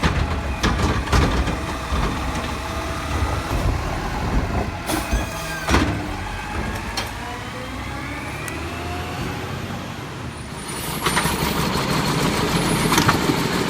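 Garbage truck at work: engine running under scattered metal knocks, a short hiss of air about five seconds in, then a gliding whine, with a louder steady hiss starting about eleven seconds in.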